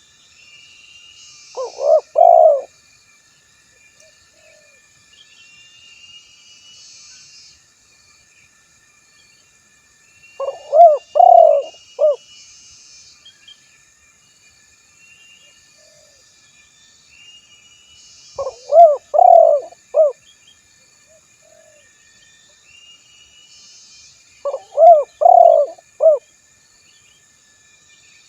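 Male spotted dove (tekukur) giving its cooing call phrase, a short run of several low coos, four times about every six to eight seconds, as a call to a rival male. Faint chirps of small birds sound between the phrases.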